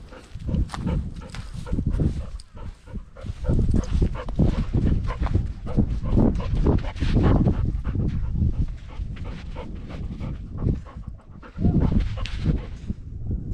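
Golden retriever panting and moving close to the microphone, a run of irregular short bursts that sit mostly low in pitch.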